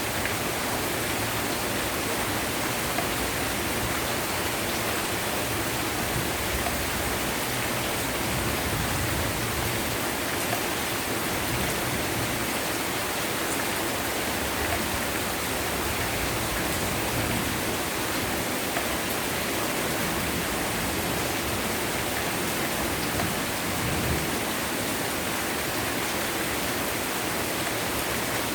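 Heavy rain falling steadily, a dense, even hiss of water that does not let up.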